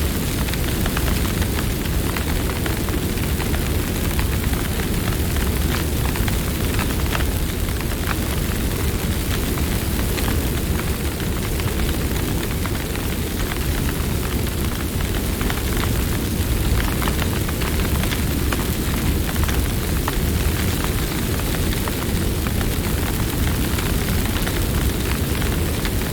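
Campfire burning, with a steady low rumble and frequent small crackles and pops throughout.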